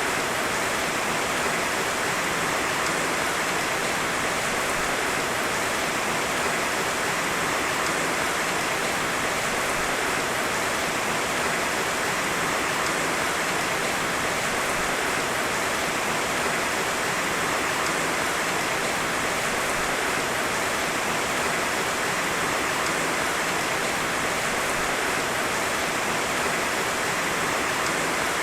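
Heavy rain falling steadily, a dense even hiss with no thunder and no separate drops standing out.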